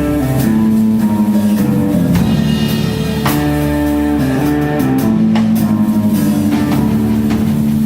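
Live band playing: guitar holding long notes over a drum kit.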